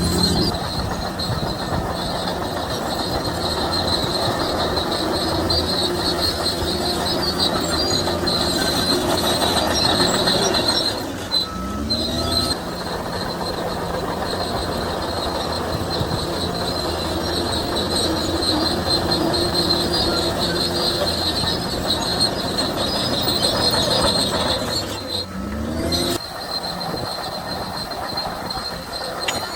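Crawler bulldozer working: diesel engine running under load while the steel tracks squeal and clatter. The sound dips and a short rising tone follows about 11 seconds in and again about 25 seconds in, as the machine changes pass.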